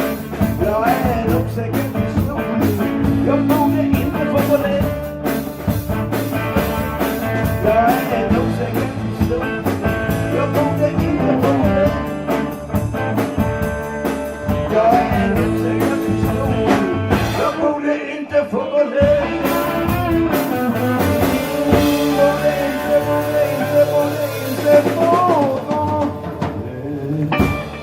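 Live blues band playing, with electric guitar bending notes over bass and drums; the music eases off just before the end as the song finishes.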